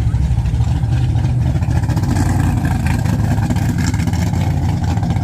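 Car engine running steadily with a loud, deep exhaust rumble.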